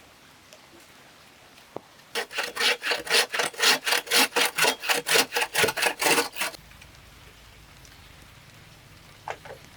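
Hand saw cutting through bamboo: a run of about twenty quick, even back-and-forth strokes starting about two seconds in and stopping after roughly four and a half seconds.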